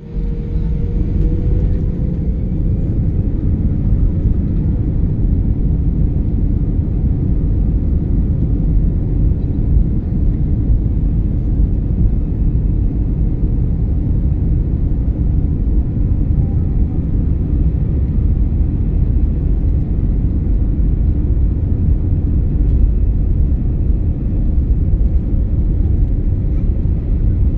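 Airbus A320 jet engines at takeoff power, a loud, steady low rumble with a faint whine that rises slightly in the first few seconds.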